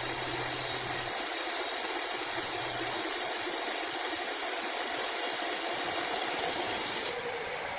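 A machine engine running steadily, with a hiss over it. About seven seconds in, the sound cuts abruptly to a quieter one.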